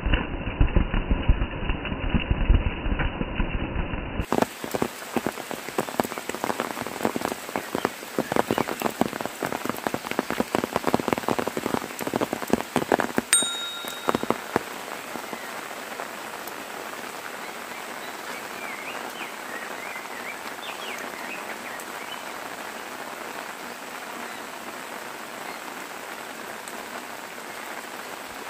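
Rain falling on leaves and a wet path: a dense patter of drop impacts that settles after about ten seconds into a steady, even hiss of rain. The first four seconds are a muffled recording with a low rumble.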